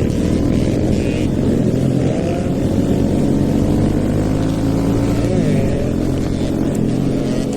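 Stage-2-tuned Hero Eco 150 single-cylinder motorcycle engine running under way, its note dipping and climbing back once near the start and again about five seconds in.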